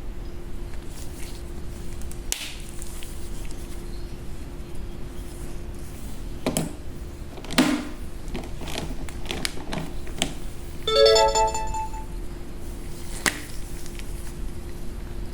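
Steady electrical hum with a few scattered clicks and taps, and about eleven seconds in a short electronic jingle of a few stepped notes, the loudest sound here.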